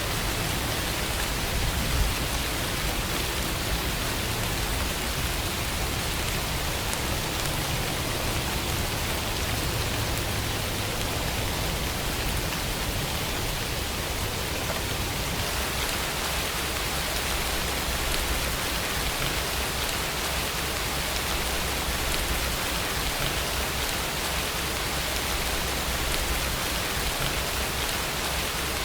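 Steady rainfall, an even hiss of rain falling on a surface.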